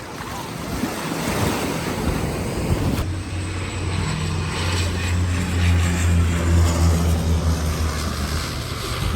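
Jet airliner engines at takeoff power, heard as a steady rushing noise with a low hum, with wind buffeting the microphone.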